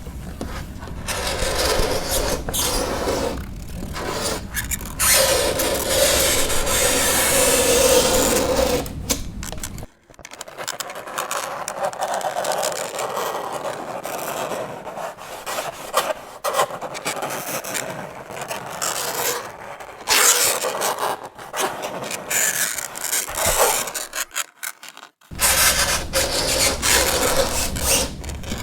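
Fingernails scraping across a chalkboard in repeated strokes, with a drawn-out squeal about five seconds in and brief breaks between strokes around ten seconds in and near the end.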